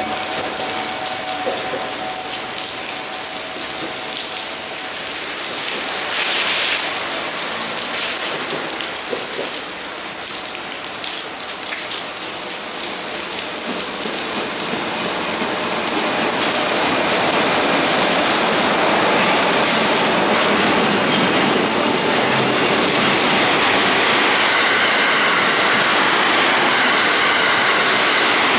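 JR Freight EF66 electric locomotive and its freight train pulling out and rolling past, over a steady hiss, with a short hiss about six seconds in. The rolling noise grows louder from about halfway through and stays loud as the train, then a passenger electric train, go by close up.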